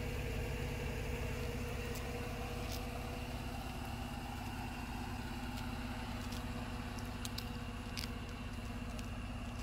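Jeep Wrangler JL's 3.6-litre V6 idling steadily, a low even hum, with a faint steady high whine over it and a few faint ticks.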